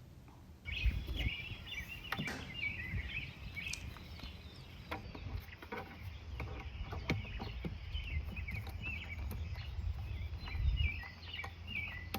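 Outdoor ambience of small birds chirping, with a low wind rumble and scattered light knocks and clicks, starting abruptly about a second in.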